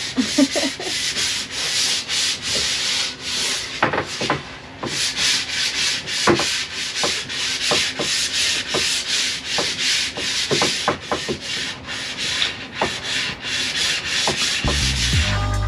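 Wood being sanded by hand with sandpaper in quick back-and-forth strokes, about three to four a second. Music with a low beat comes in near the end.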